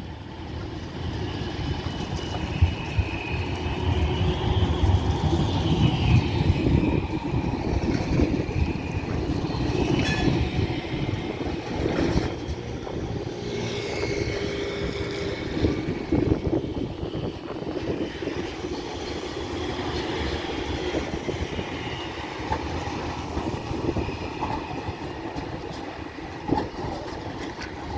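Tram running on street track with a steady low rumble. A wavering high-pitched squeal comes in near the start and again about halfway through, and there are a few sharp clacks over the rails.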